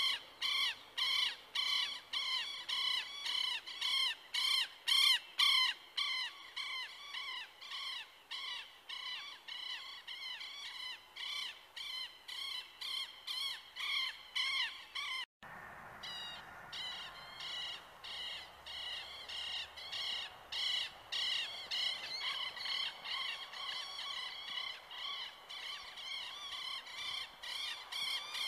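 A bird calling over and over in a steady rhythm, about two to three short pitched calls a second, broken by a brief dropout about halfway. The rush of the river's rapids lies faintly underneath, mainly in the second half.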